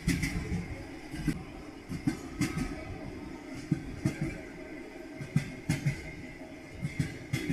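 Railway carriage wheels clattering over rail joints: knocks in quick pairs about once a second over a steady rolling rumble.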